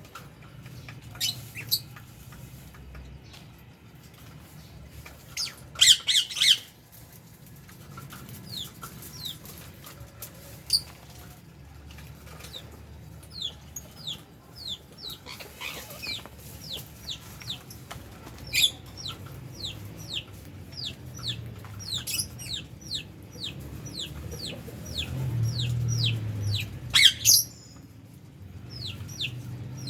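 Small parrots (lovebirds and budgerigars) calling in an aviary. A quick run of short, high, falling chirps fills the second half, broken by a few loud harsh squawks about six seconds in and near the end, over a low steady hum.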